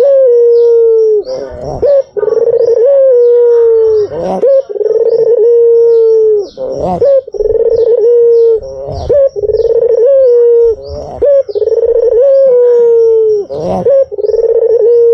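White domestic ringneck dove (puter) cooing over and over: long, steady low coos about every two seconds, each opening with a short step up in pitch, with a fast run of faint high chirps behind them.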